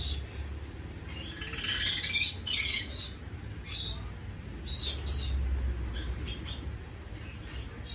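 A bird chirping and squawking in a string of short, high calls, some sweeping downward, busiest in the first three seconds and again around five seconds in, over a low steady hum.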